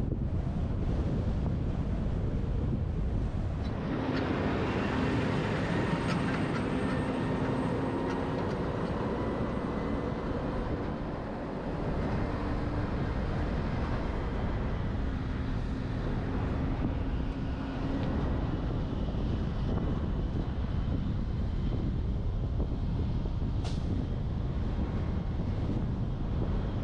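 Wind rushing over a camera mounted on the roof of a moving truck, over steady road and tyre noise. A droning hum rises about four seconds in and fades out by about eighteen seconds.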